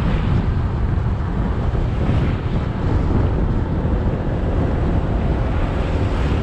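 Motorbike riding along a road, its engine running steadily under heavy wind buffeting on the microphone and road noise.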